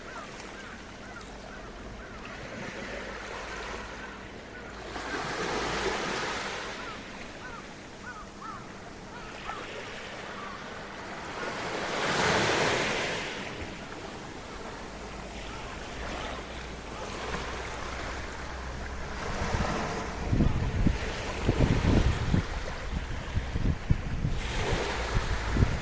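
Small sea waves washing onto the shore of a sheltered bay, swelling twice in surges. About two-thirds of the way through, gusts of winter wind start buffeting the microphone with uneven low rumbles.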